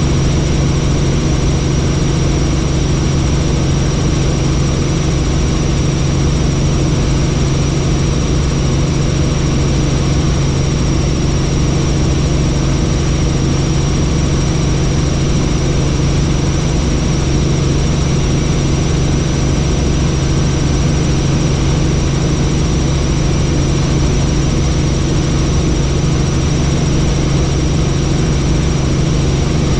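Helicopter in flight: a steady, loud drone of engine and rotors with a thin, high, unchanging whine over it.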